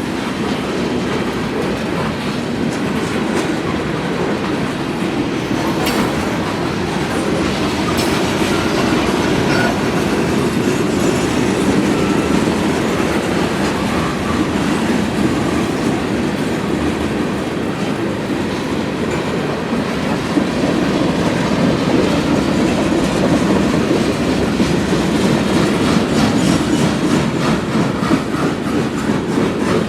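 CSX freight train cars rolling past at close range: a steady rumble of steel wheels on rail with scattered clicks and clacks.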